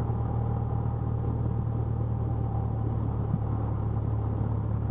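Cessna 172's piston engine and propeller running at low taxi power, heard inside the cockpit as a steady low drone.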